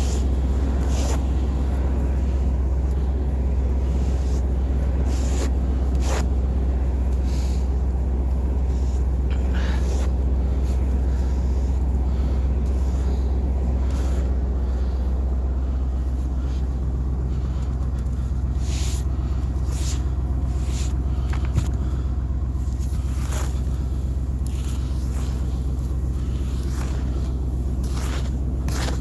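Chevrolet 350 Vortec V8 of a 1998 Silverado C2500 pickup idling steadily after a cold start at -16 °C, a constant low rumble. A few light clicks come through now and then, and about halfway through a slightly higher hum joins the rumble.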